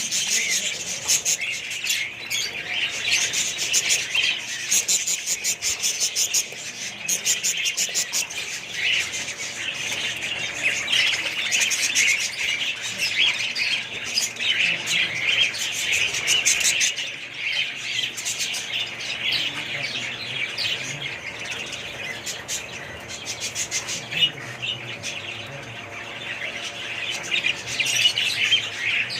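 Many small birds chirping and squawking nonstop, a dense overlapping chatter of high calls.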